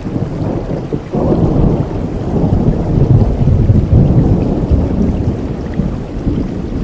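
Rolling thunder over steady rain: a deep rumble swells about a second in, peaks around the middle and slowly fades, over an even hiss of rainfall.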